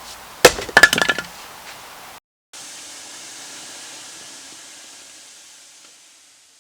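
A sharp knock followed by a quick run of clinks with a ringing tone, then, after a brief break, a steady hiss that slowly fades out.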